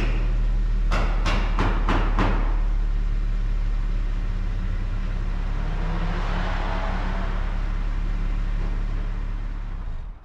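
Audi A7's supercharged V6 idling steadily after a cold start. A run of sharp, regular clicks, about three a second, sounds over it for the first couple of seconds.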